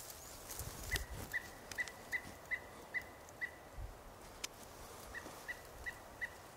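A bird repeating a short, high single-note call, about three a second, in two runs with a pause between, over a few faint clicks.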